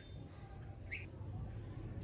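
Red-whiskered bulbul giving one short, faint chirp about a second in, over a low steady hum.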